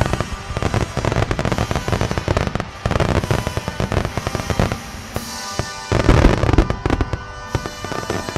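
Fireworks display in full barrage: shells bursting in rapid succession with dense crackling, the heaviest booms coming about six seconds in. Music plays underneath the bangs.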